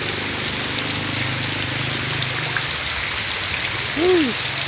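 Heavy rain falling steadily, a dense even hiss of drops on surfaces. About four seconds in, a short tone rises and falls over the rain.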